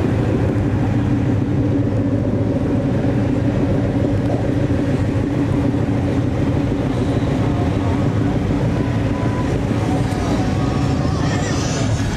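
A car being driven at a steady speed: its engine and the running noise make an unbroken low drone.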